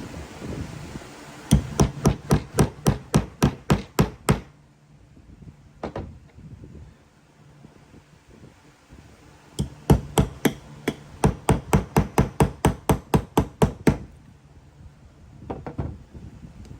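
Two runs of rapid, evenly spaced knocks, like hammer blows, about five a second. The second run is longer, and there are a few single knocks between and after the runs.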